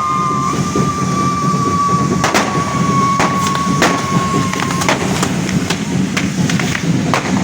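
Fireworks: a steady high whistle that cuts off about five seconds in, over a continuous low rumble, with sharp bangs from about two seconds in that come more often toward the end.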